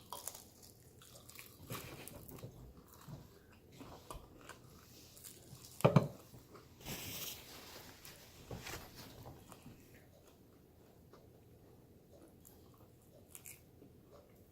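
People biting into and chewing chicken wings, with small wet chewing and crunching sounds. A short sharp knock about six seconds in is the loudest sound, followed by a brief hiss; the chewing grows quieter after about ten seconds.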